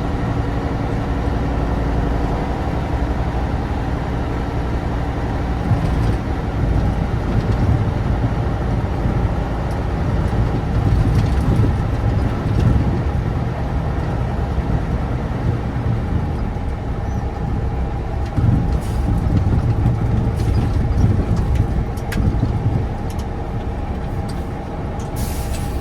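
1988 Tatra 815 dump truck's air-cooled, naturally aspirated V10 running as the unloaded truck is driven, louder and rougher through the middle stretch. There are a few sharp clicks, and a brief hiss of air comes near the end.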